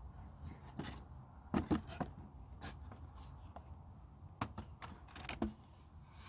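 Scattered light clicks and knocks, about a dozen at irregular intervals, over a low steady hum.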